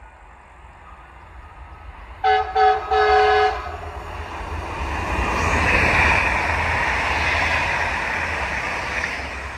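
A passing train's horn sounds three times about two seconds in: two short blasts, then a slightly longer one, each on two pitches at once. The rushing rumble of the train going by follows, loudest about halfway through and starting to fade near the end.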